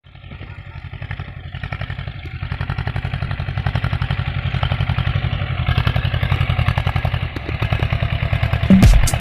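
Swaraj 724 FE tractor's diesel engine running with a steady, rapid chugging beat, growing louder over the first several seconds. Music with a heavy beat comes in near the end.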